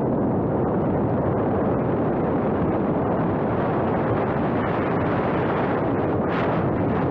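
Steady wind rumbling on the microphone, with a brief stronger gust about six seconds in.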